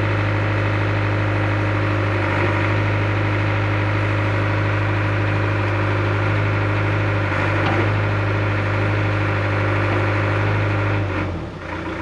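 Excavator's diesel engine idling steadily, then shutting down near the end, its hum dying away.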